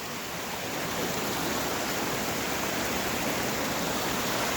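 Fast-flowing creek and waterfall rushing steadily, a dense hiss of water that grows a little louder about a second in.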